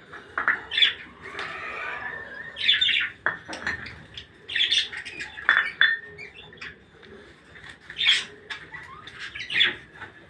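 Pet birds chirping and squawking: short calls, about one a second, with a longer, harsher squawk early on.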